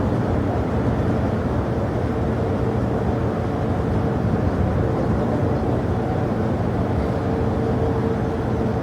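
Jet airliner engines running, a steady rumble with a faint constant whine above it.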